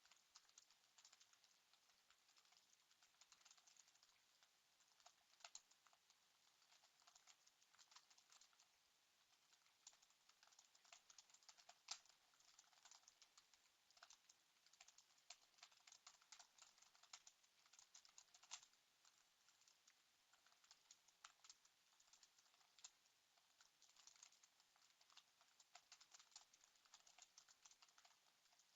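Faint, rapid typing on a computer keyboard, a quick run of keystroke clicks with short pauses between bursts.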